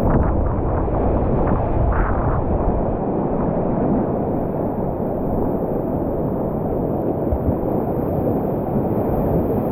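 Steady, loud rushing of whitewater in a creek rapid, heaviest in the low end.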